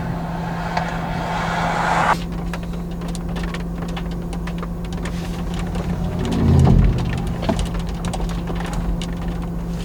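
Car driving, heard from inside the cabin: a steady low engine and road drone. A rushing noise swells and cuts off suddenly about two seconds in, and a loud low thud comes around six and a half seconds.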